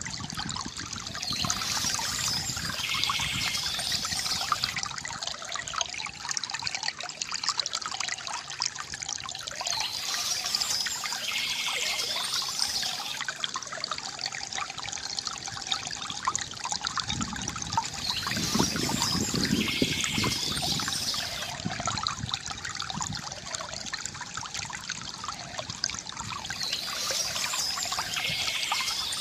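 Water from a bamboo fountain trickling and gurgling steadily, with a brighter, higher splashy patch coming back about every eight seconds.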